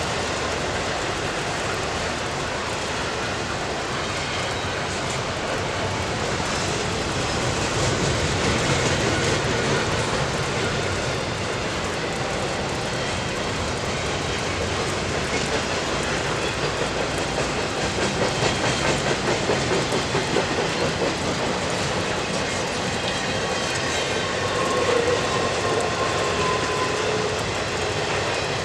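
Norfolk Southern train's cars rolling past on the line, a steady rumble and rush of wheels on rail, with a rhythmic beat of wheels over rail joints about two-thirds of the way through.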